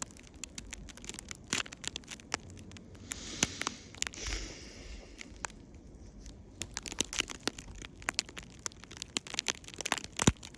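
Irregular sharp crackles and clicks, scattered unevenly, with a brief soft rush of noise around the middle.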